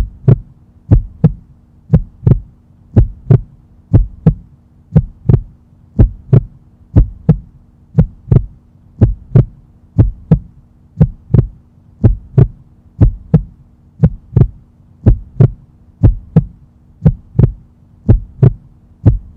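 Heartbeat sound effect: a steady lub-dub double beat repeating about once a second over a low hum, cutting off suddenly near the end.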